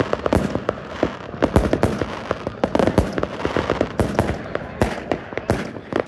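New Year fireworks going off: a rapid, irregular run of sharp bangs and cracks, several a second, over a continuous crackling haze.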